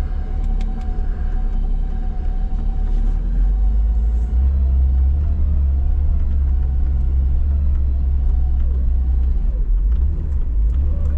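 Vehicle engine running with a deep, steady rumble and a lighter wavering whine over it.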